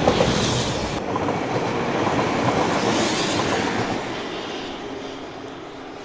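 Class 197 diesel multiple unit passing close by, its wheels clicking over the rail joints. The sound changes abruptly about a second in, then rumbles on and fades steadily over the last few seconds as the train moves away.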